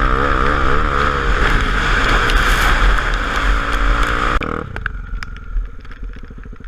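Honda XR250 Tornado motorcycle's single-cylinder engine running at road speed under a loud rush of wind, then a little over four seconds in it cuts back sharply to a slow, even idle.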